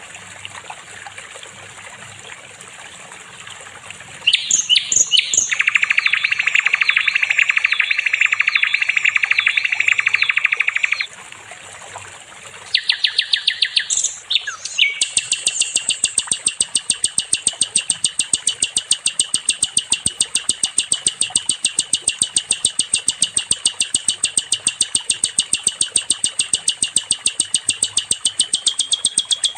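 Sikatan londo song. After a few seconds of quiet background, loud warbling notes give way to a buzzy trill. After a short pause, from about a third of the way in, a long, very fast, even trill of rapidly repeated notes follows.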